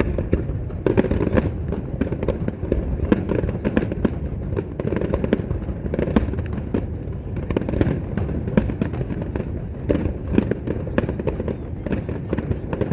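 Fireworks display: rapid, continuous bangs and crackling from many shells and cakes going off at once over a steady low rumble of booms.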